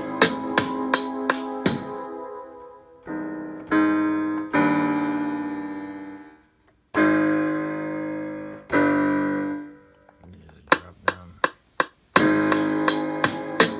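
Electric piano chords from the Akai MPC Live's stock sounds: several long chords, each held and fading. Before and after them comes a programmed beat of repeating hits, which returns about twelve seconds in, just after a few sharp clicks.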